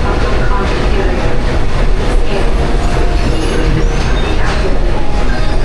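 Walt Disney World Railroad passenger train running along the track: a steady, loud rumble of wheels and cars, heard from a seat aboard.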